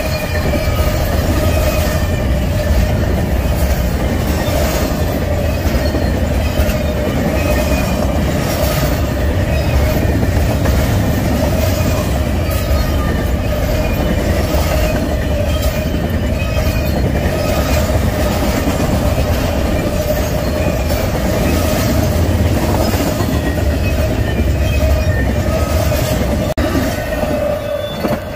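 Double-stack intermodal train of well cars rolling past close by: a steady heavy rumble with the clatter of wheels over the rail joints and the crossing, and a steady ringing tone over it. Near the end the last car passes and the noise starts to fall away.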